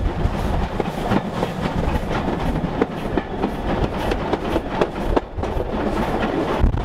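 Heritage railway train running on the track: a steady rumble of wheels on rails with frequent sharp clicks and knocks, and a brief dip in the noise about five seconds in.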